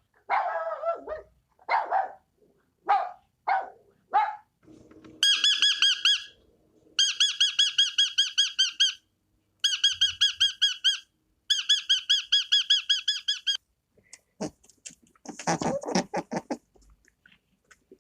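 A small bird singing a rapid trill of evenly repeated chirps in four bursts of one to two seconds each. Short yips or barks from a dog come before it in the first few seconds, and a brief rougher animal sound follows near the end.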